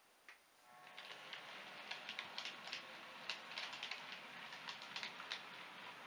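Model train running along the layout's track: a click about a third of a second in, then a steady running rattle from about a second in, with many small irregular clicks of the wheels over rail joints.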